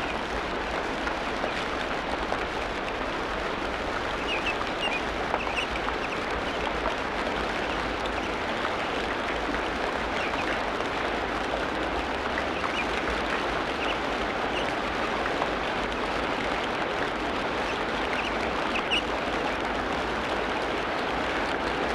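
Tropical rainforest ambience: a steady dense hiss of natural background noise, with brief high bird chirps breaking through a few times.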